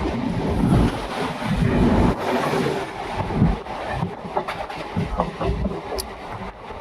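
Local passenger train running: steady rumble and rattle of the coach on the track, with wind buffeting the microphone and a few sharp clicks about four to six seconds in.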